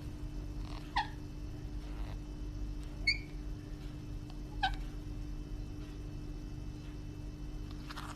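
Four short, high animal calls, a second or more apart, over a steady low hum.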